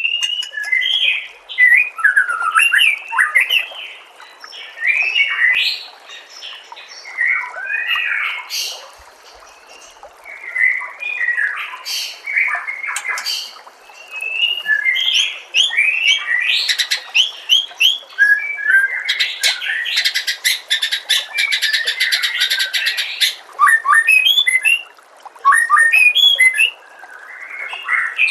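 White-rumped shama (murai batu) singing: a string of varied whistled phrases with quick up-and-down sweeps. From about 19 to 23 seconds in comes a fast buzzy rattling trill.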